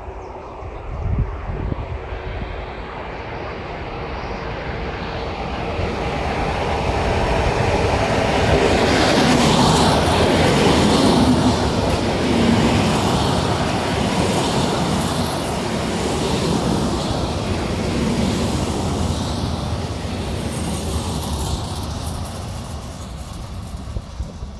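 A train passing through a station, growing louder to its peak about ten seconds in and then slowly fading as it moves away.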